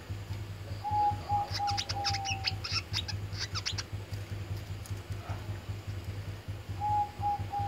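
A 'wiceh' songbird calling: a fast run of sharp, high chirps, with a short series of low whistled notes falling slightly in pitch at the start and again near the end, over a steady low hum.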